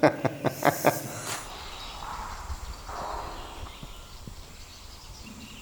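Bleating in the first second, a pitched call broken into quick pulses, then only faint background sound.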